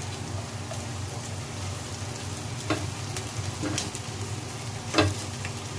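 Chopped onion and garlic sizzling in oil in a pot while being stirred with a silicone spatula. A few light knocks cut through the steady sizzle, the sharpest about five seconds in.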